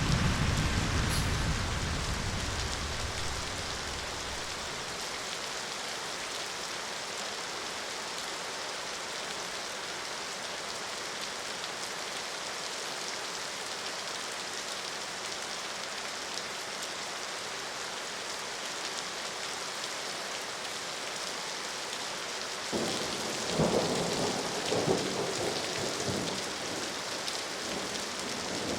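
Steady heavy rain hissing. A low thunder rumble dies away over the first few seconds, and another peal of thunder breaks in about three-quarters of the way through, with a couple of louder cracks.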